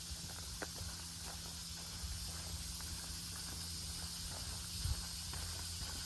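A few faint footsteps of a hiker walking on, over a steady high-pitched hiss of outdoor background.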